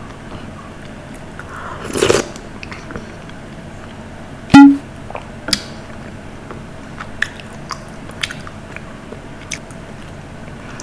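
Close-miked eating sounds: a crunchy burst about two seconds in, a loud, short, pitched knock or pop about halfway, and scattered soft mouth clicks.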